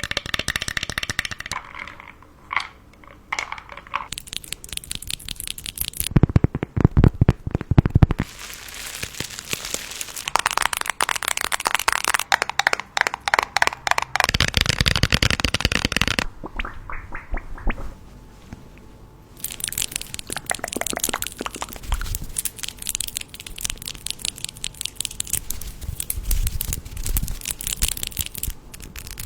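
Close-up crinkling and crackling of crinkly wrapping being handled: a dense run of small sharp clicks that swells and eases in stretches of a few seconds.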